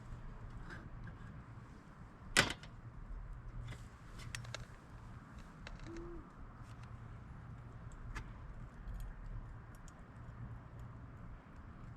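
Scattered light clicks and taps, with one sharp, louder knock about two and a half seconds in, over a low steady hum.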